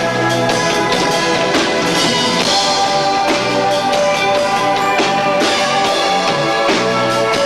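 Live rock band playing loud and steady, with electric guitar and two drummers hitting often, recorded through a 1990s camcorder's built-in microphone, so the sound is lo-fi and muddy.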